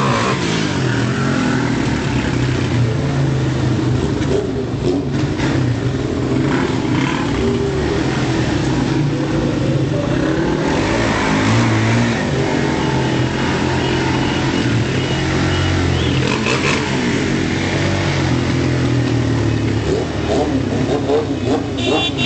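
Motorcycle engines running and revving, rising and falling in pitch with the throttle.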